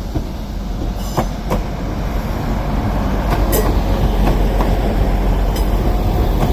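Class 153 and Class 175 diesel multiple units running through the station, the diesel rumble slowly growing louder, with wheels clicking sharply over rail joints now and then. A steady high whine joins about five and a half seconds in.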